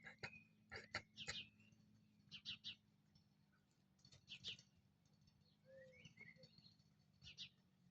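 Faint bird chirps: short high calls in small clusters, coming every second or two, over a low steady hum.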